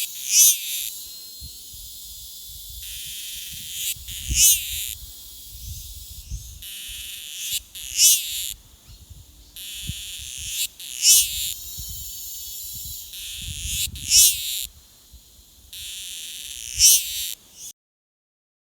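A wild animal calling six times, one call about every three to four seconds. Between the calls a high hissing drone starts and stops, over low rumbling.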